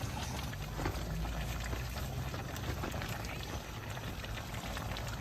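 A pot of Xinjiang big-plate chicken stew simmering, bubbling and crackling steadily, over a low steady rumble.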